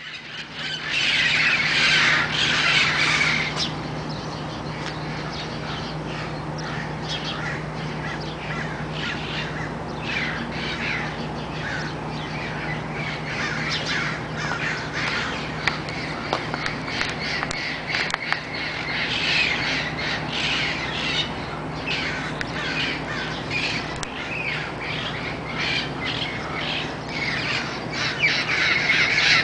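A flock of parrots squawking, many harsh calls overlapping, loudest in the first few seconds and again near the end, over a steady low hum.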